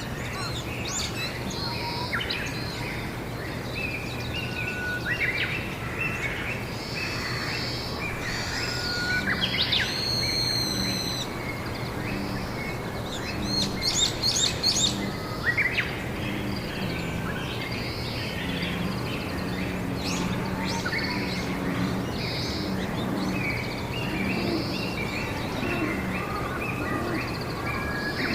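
Several wild birds chirping and calling over one another, with a louder call about ten seconds in and a quick run of repeated notes a few seconds later. A steady low hum runs underneath.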